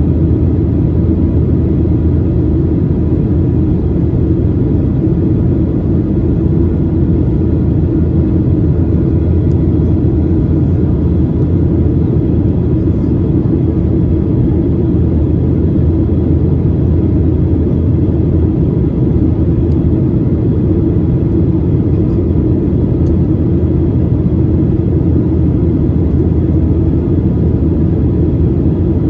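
Steady cabin noise of a Boeing 737-800 in flight: an even, loud rumble of engines and airflow with a faint steady whine above it.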